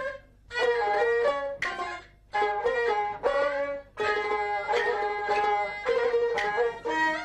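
Jinghu (Peking opera fiddle) playing an aria melody in short, ornamented phrases, broken by brief pauses.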